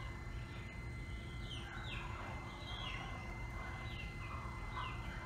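Small birds chirping again and again, each chirp a quick falling note, over a faint steady hum while the ChickenGuard door opener winds the metal door up on its string.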